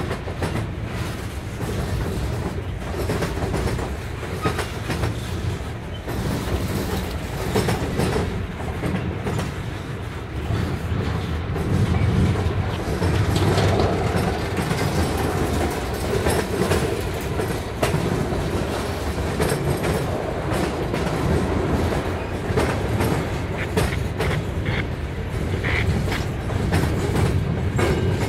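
Freight cars of two passing trains rolling by close on adjacent tracks: a steady rumble with wheels clicking over rail joints. A few short high wheel squeals come near the end.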